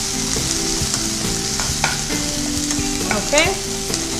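Masala of onions, curry leaves, green chillies and ginger-garlic paste sizzling in hot oil in a non-stick kadai while a steel spoon stirs and scrapes it. This is the stage of frying off the paste's raw taste. A short rising squeak comes about three seconds in.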